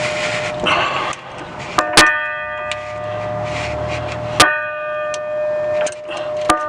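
A metal bell struck three times, about two seconds apart. Each strike rings on with a steady tone and overtones, with rustling and scraping between strikes.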